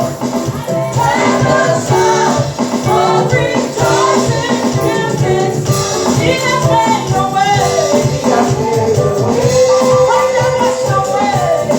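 Live gospel praise-and-worship music: singing voices carrying a melody over band accompaniment with a steady beat.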